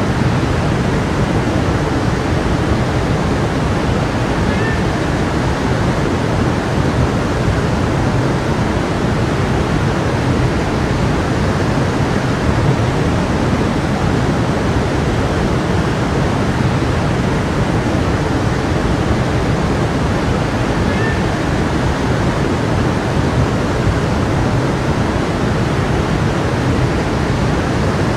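A stream flowing steadily: an even, unbroken rush of running water.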